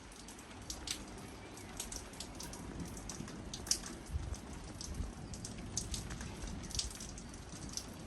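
Rain falling, with irregular sharp drops ticking on a nearby surface over a low, steady background rumble.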